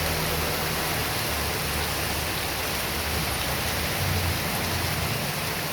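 Heavy rain pouring down steadily as a dense, even hiss, with a low rumble underneath.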